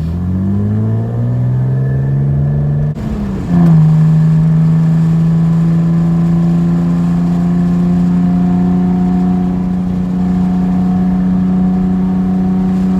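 Straight-piped Nissan 300ZX V6 exhaust under acceleration, its note rising for about three seconds. Then a short dip and a drop in pitch at an upshift, and a loud, steady note held at constant revs.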